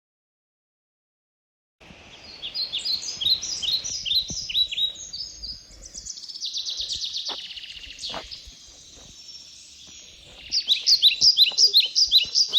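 Small songbirds chirping and singing in quick runs of short repeated notes, beginning about two seconds in after dead silence and growing louder near the end.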